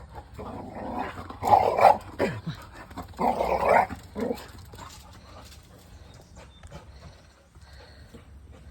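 A dog vocalizing in excitement: two loud outbursts, about a second and a half and three and a half seconds in, the first ending in a falling note, then quieter snuffling noises.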